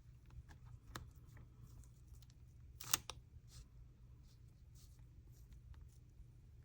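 Quiet paper handling: soft rustles and light taps, with one sharper crackle of paper about three seconds in, over a low steady hum.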